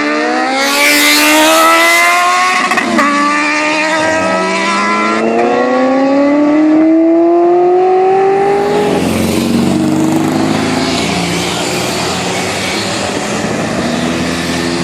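A performance vehicle's engine accelerating hard, its pitch climbing, dropping at an upshift about three seconds in, then climbing through a long next gear before falling away after about nine seconds.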